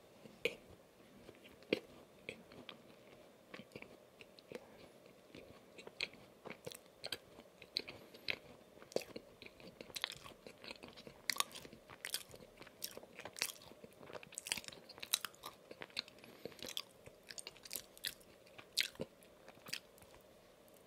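Close-miked chewing of a soft, cream-filled donut topped with Oreo crumbs: a steady run of short, sharp mouth clicks, denser from about ten seconds in, with another bite taken near the end.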